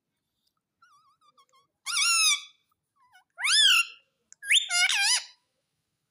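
Pet parrot calling: a few soft, wavering notes, then three loud, shrill calls that bend in pitch, each under a second long.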